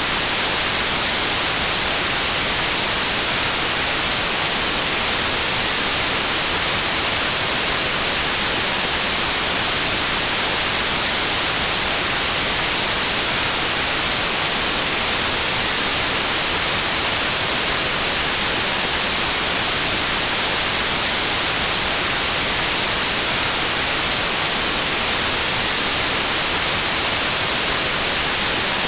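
Steady white noise: an even hiss with its energy weighted toward the high end, unchanging throughout.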